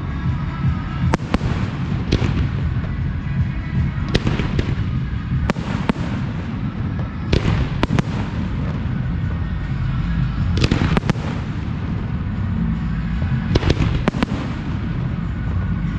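Professional aerial fireworks display: shell bursts going off in quick succession, sharp bangs often coming in pairs every second or two over a continuous low rumble of the barrage.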